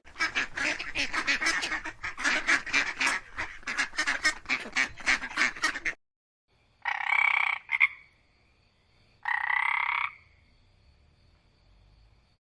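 Frogs croaking in a fast run of repeated pulses for about six seconds, which cuts off suddenly. Then come two separate drawn-out calls from another animal, each under a second.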